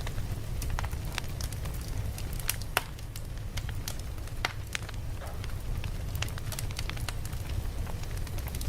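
Campfire crackling: irregular sharp pops and snaps of burning wood, some louder than others, over a steady low rumble.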